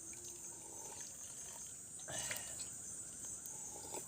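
Steady high-pitched chorus of insects such as crickets, with a short rustling noise about two seconds in.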